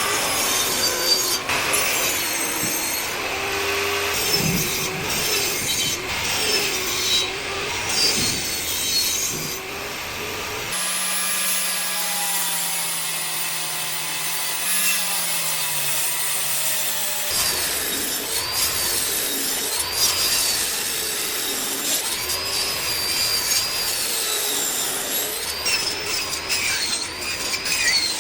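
Wood being sawn and rubbed in a run of edited woodworking clips, with repeated scraping strokes and sudden changes of sound at cuts about a third and two thirds of the way through.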